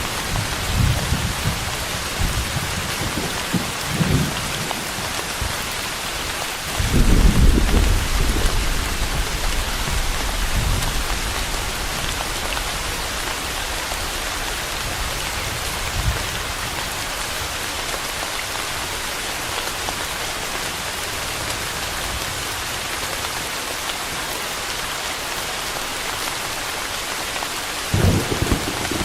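Steady rain falling, with thunder rumbling in the distance: brief low rumbles near the start, the loudest roll starting about seven seconds in and dying away over several seconds, and another short rumble near the end.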